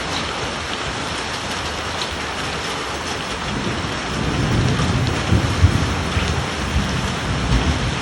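Hail and heavy rain pelting down in a steady hiss with scattered sharp ticks of hailstones. From about three and a half seconds in, a low rumble of thunder swells and fades out near the end.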